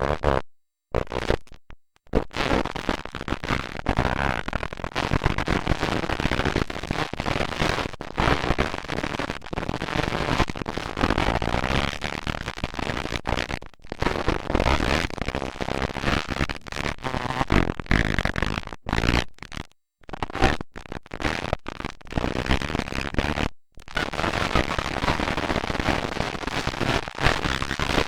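Motocross dirt bikes' engines racing, a harsh crackling din with faint wavering engine pitches, cut by several sudden brief dropouts to silence.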